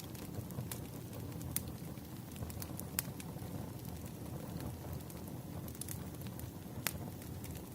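Wood fire crackling: irregular sharp pops and snaps over a steady low rumble, with louder pops about three seconds in and again near the end.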